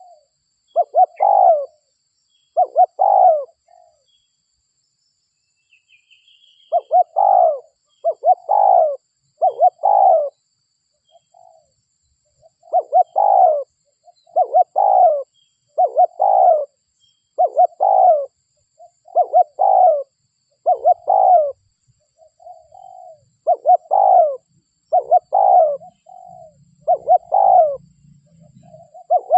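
Spotted dove (derkuku) cooing over and over in short repeated phrases, a lure call for drawing wild doves in. There is a pause of a couple of seconds about four seconds in, then the cooing runs on steadily.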